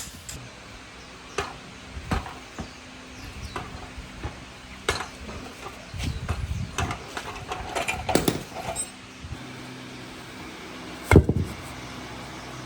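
Workshop handling sounds: scattered knocks, clicks and scrapes of tools and metal parts, busiest in the middle, with one loud thump near the end over a faint steady hum.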